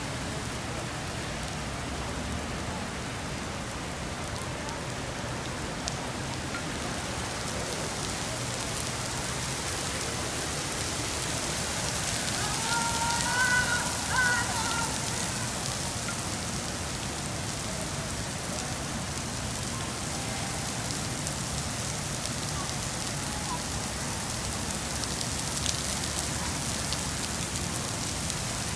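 Heavy rain falling steadily on wet paving, an even hiss. About halfway through, a brief wavering tone sounds over it for a couple of seconds.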